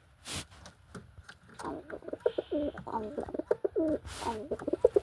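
Pigeon cooing, a run of repeated wavering calls that starts about a second and a half in and goes on to the end. Two short rustles come through it, one just after the start and one near the end.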